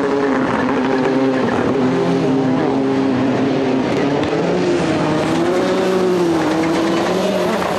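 Rallycross Supercars' turbocharged four-cylinder engines racing, the pitch rising and falling as the cars brake, shift and accelerate, with a dip and climb in pitch about two thirds of the way through.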